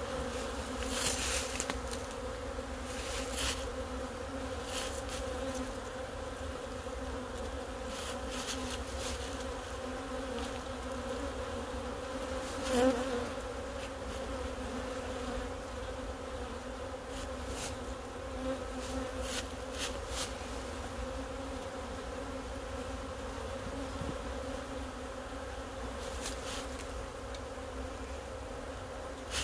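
Honey bee colony buzzing steadily around an opened hive, a dense hum of many bees stirred up by the hive being taken apart. Occasional short knocks and clicks sound over the hum, the loudest about halfway through.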